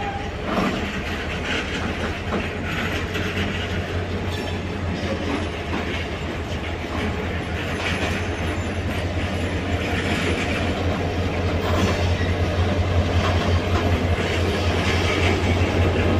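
Train running along the station tracks, its wheels clicking over the rail joints, with a steady low hum that grows gradually louder toward the end.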